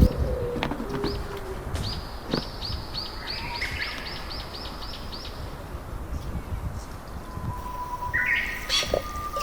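Birds chirping: one bird repeats a quick series of short high notes, about four a second, and other bird calls come in near the end.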